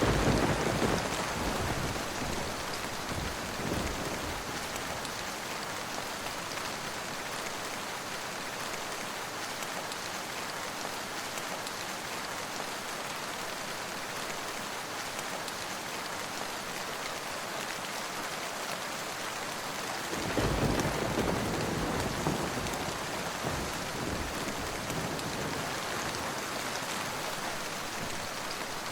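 Steady rain falling, a constant hiss, with low rolls of thunder at the start and again about twenty seconds in.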